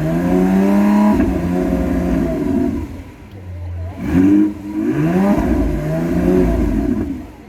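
Car engine revved in two bursts, each climbing in pitch, holding briefly and then dropping back; the second starts about four seconds in.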